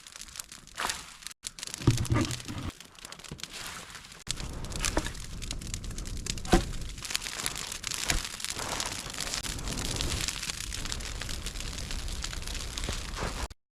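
Large wood campfire burning, crackling and popping irregularly, with a steady rushing noise coming in about four seconds in; the sound cuts off suddenly near the end.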